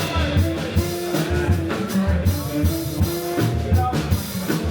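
Live jazz band playing, with a drum kit keeping time under a line of low bass notes and pitched melody notes.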